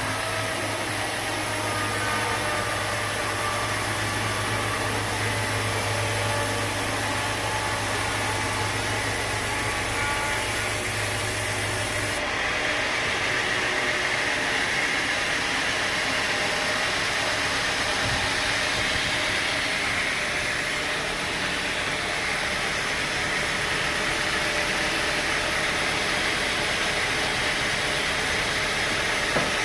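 Sawmill machinery running steadily, a constant engine-like drone, with an abrupt change in its tone about twelve seconds in.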